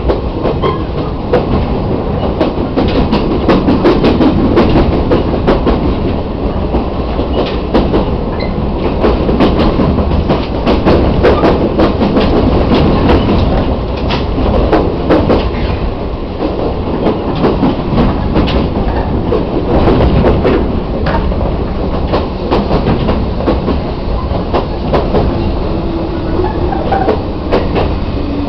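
Chichibu Railway 1000 series electric train heard from inside the car: steady running rumble with rapid clicking and clatter of the wheels over rail joints and points. Near the end a low hum falls in pitch as the train slows.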